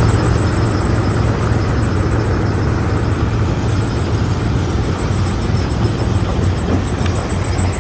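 Heavy machinery running steadily: a continuous loud low rumble with an unchanging deep drone.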